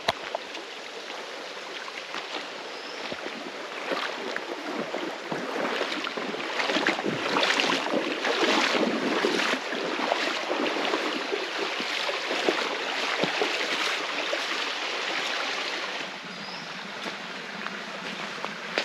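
A shallow rainforest river running over rocks, with irregular splashes and knocks close by that are loudest in the middle stretch.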